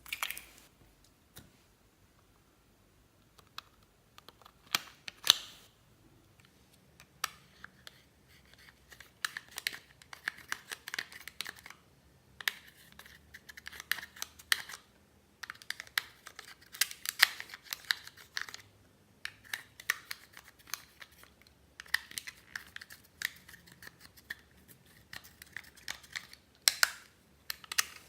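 Slime being squished and mixed by hand, giving sticky clicks, pops and crackles in bursts.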